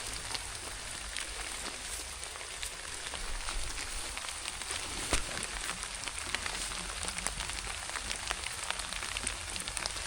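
Steady rain falling, a dense hiss with many small drop ticks scattered through it.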